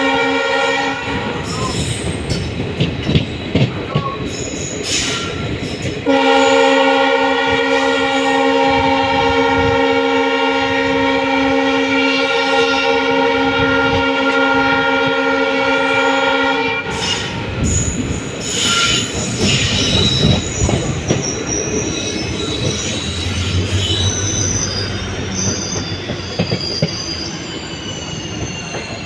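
Train horn sounding: a blast that cuts off about a second in, then one long blast of about ten seconds starting about six seconds in. Between and after the blasts the train is running on the rails, with wheels squealing in thin high tones near the end.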